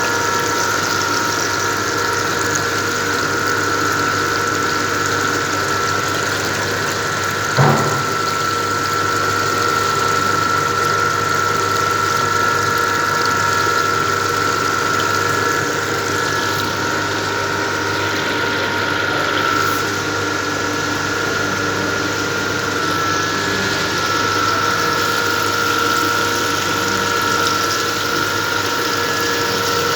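Electric pump of an oil-filtering setup running steadily with a high whine. There is a single knock about eight seconds in.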